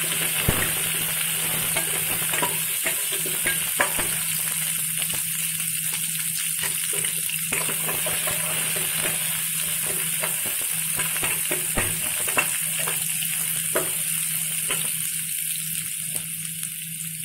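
Onion, curry leaves and dried red chillies sizzling in hot oil in a stainless steel kadai for a tempering, with a steel ladle scraping and clinking against the pan as they are stirred. A steady low hum runs underneath.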